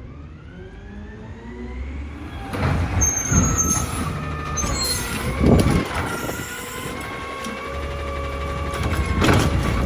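Heil Durapack Rapid Rail automated side-loader garbage truck at work. Its engine revs up over the first three seconds, which typically drives the hydraulics, then holds a steady high whine. Several loud bangs come through it, the loudest about halfway through.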